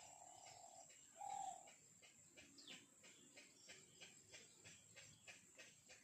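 Faint bird calls: two short steady notes in the first second and a half, the second one louder. After that comes a faint rapid ticking, about five ticks a second.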